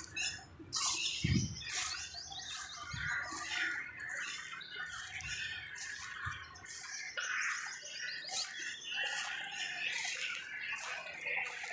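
Several birds chirping and calling over one another in a continuous jumble of short, high calls.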